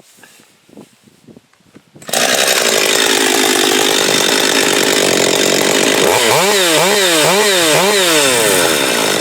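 A warm two-stroke chainsaw being restarted: it catches suddenly about two seconds in and runs at high speed. Near the end it is revved up and down four times in quick succession.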